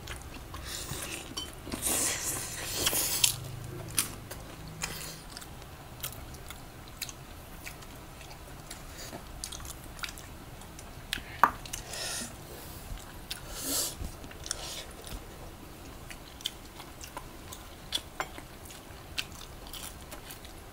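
Close-miked eating of chicken adobo with rice: wet chewing and biting with scattered sharp clicks and light crunches. There is a louder stretch of noise about two seconds in.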